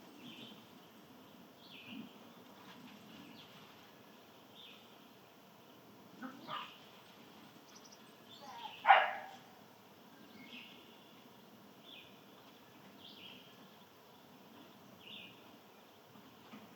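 A dog barks once loudly about nine seconds in, with a fainter bark a few seconds earlier, over repeated short high bird chirps.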